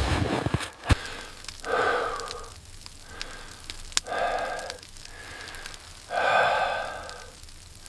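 A person breathing out heavily three times, each breath lasting under a second and coming about two seconds apart, with a few sharp clicks in between.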